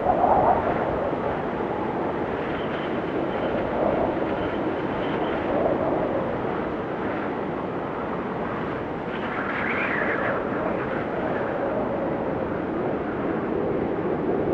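Blizzard wind blowing in gusts: a steady rushing noise with whistling tones that rise and fall. The gusts are strongest right at the start and about ten seconds in.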